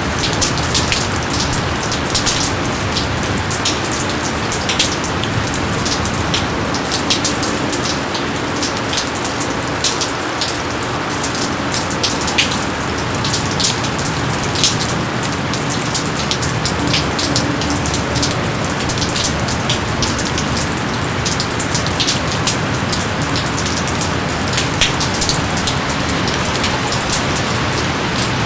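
Steady rain falling, with many individual drops ticking sharply close by over an even hiss of the downpour.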